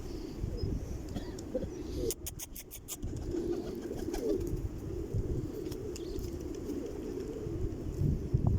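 Many pigeons cooing together in a steady, overlapping chorus, with a quick run of sharp clicks about two seconds in.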